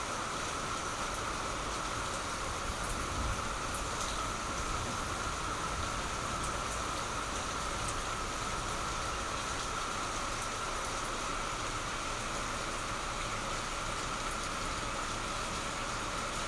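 Steady rain falling on a wet tiled rooftop terrace and potted plants, an even hiss with scattered drop ticks.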